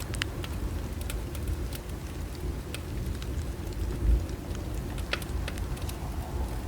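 Bonfire crackling: scattered sharp pops and snaps over a low, steady rumble of burning, with a low thump about four seconds in.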